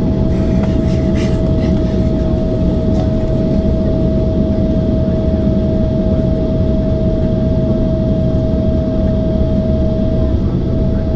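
Steady airliner cabin noise inside a Boeing 767-400ER: a low, even rumble with a constant whine held on one pitch.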